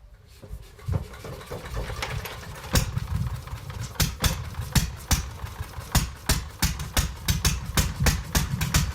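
Vintage Condor Guidetti A320 engine starting for the first time after restoration: a few scattered firing pops at first, then it catches and settles into a faster, regular chugging beat near the end.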